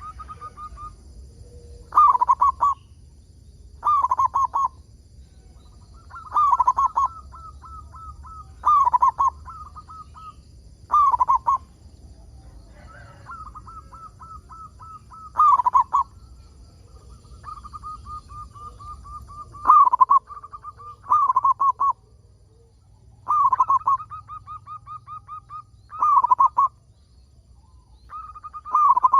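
Zebra dove (perkutut) cooing: loud cooing phrases repeat about every two seconds, with quicker runs of softer, rippling notes in between.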